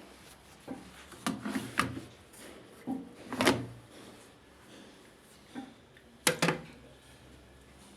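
A series of sharp knocks and clatters of hard objects, the loudest about three and a half seconds in and a quick pair near the end.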